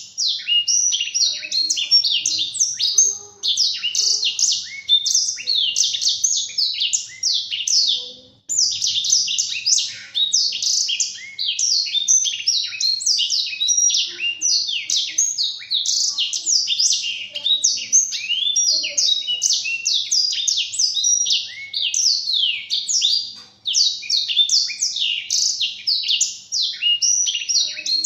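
Blackthroat (black-throated canary) singing a long, rapid, continuous twittering song of quick high sweeping notes, with two brief pauses.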